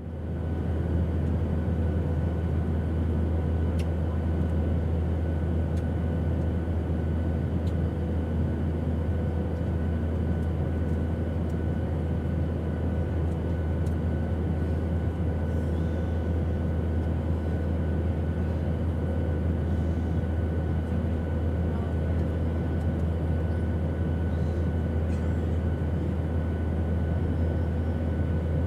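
Steady airplane engine drone: a deep, even hum with a few faint steady tones above it, unchanging in pitch and level.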